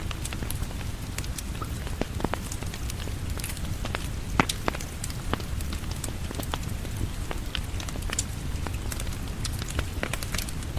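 Steady rain falling, blended with a crackling wood fire: irregular sharp pops and snaps over a low, even rumble, with one louder pop about four and a half seconds in.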